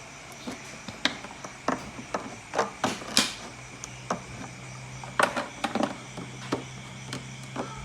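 Irregular clicks, knocks and plastic clatter of a plastic bottle being handled and cut to make feed holes. A low steady hum starts about halfway through.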